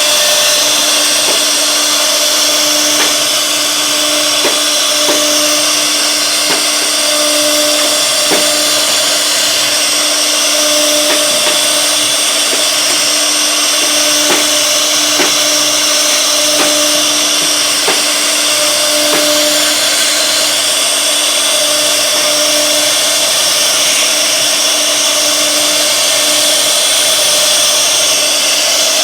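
CNC router spindle running and cutting wood: a steady high whine and hiss, with a lower hum that fades in and out and light ticks roughly once a second.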